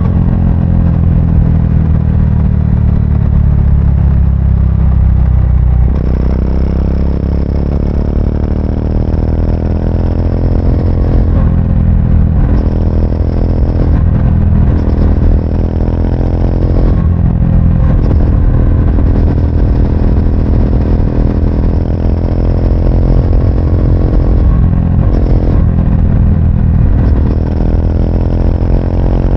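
Triumph Speed 400's single-cylinder engine running on the move. The pitch falls steadily for the first several seconds as the bike slows, then rises sharply. After that it holds with several brief dips and recoveries, as when the throttle is lifted for gear changes.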